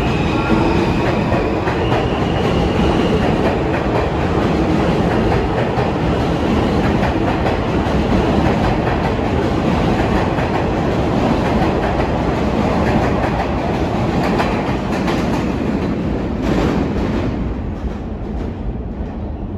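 New York City subway train running at speed, heard from inside the car: a steady loud rumble with wheels clacking over rail joints. A thin high whine sounds near the start, and the noise eases a little near the end.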